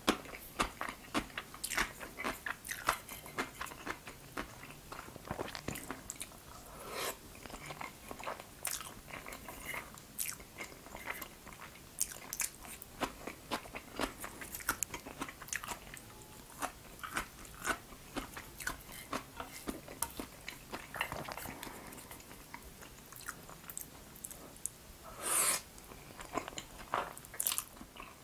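Close-miked ASMR eating sounds: chewing and crunching of crisp pickled yellow radish and jajangmyeon noodles, a rapid run of small wet crunches and mouth clicks, with one louder, longer burst about 25 seconds in.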